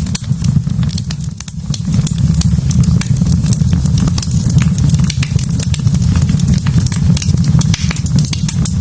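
Wood fire burning in a fireplace: a steady low rumble with many sharp crackles and pops.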